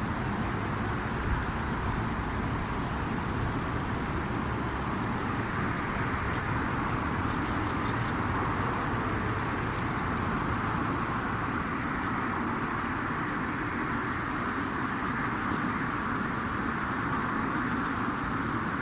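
Wood campfire burning with a steady rushing hiss and frequent small crackles and pops, with a few louder pops around the middle.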